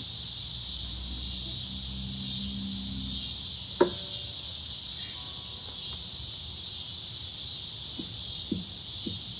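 Steady high-pitched chorus of cicadas, with a single sharp click about four seconds in.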